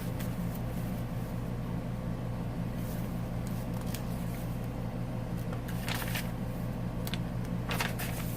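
A steady low hum, with a few brief, soft rustles of paper journal pages being handled, about three, six and eight seconds in.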